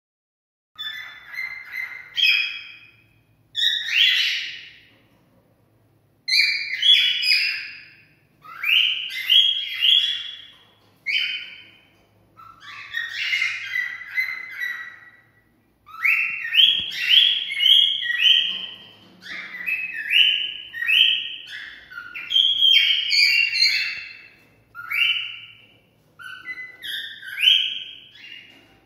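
Cockatiel singing its whistled mating song: runs of short, chirpy whistled notes in bouts of a second or two, with brief pauses between them.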